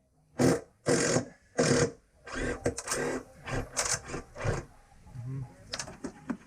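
Power screwdriver run in a series of short bursts, backing out the screws that hold the boat's rails: three longer runs early on, then a quicker string of brief bursts.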